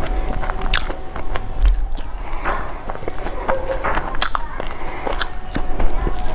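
Close-miked mouth sounds of a person chewing a mouthful of rice: wet smacks and sharp clicks at irregular intervals.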